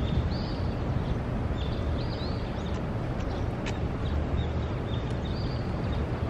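A small bird chirping, short high arched notes in little bursts every second or two, over a steady low rumble of street background noise.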